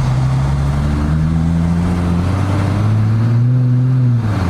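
Car engine pulling under acceleration on a snowy road, its note climbing, dropping back at about two seconds, then climbing again and dropping back near the end.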